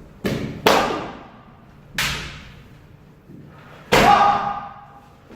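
Kendo sparring: sharp cracks and thuds of bamboo shinai strikes and stamping footwork on a wooden dojo floor, echoing in a large hall. Two come close together just after the start, a lighter one at about two seconds, and the loudest at about four seconds with a brief pitched sound, likely a kiai shout, on top of it.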